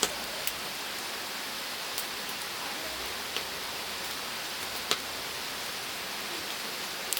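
Cooking over a wood-charcoal fire: a steady hiss with scattered sharp crackles and pops, about six of them, the loudest about five seconds in.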